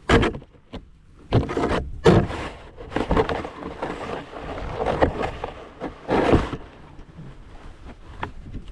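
Snow shovel scraping and pushing snow across a driveway in a run of about half a dozen uneven strokes.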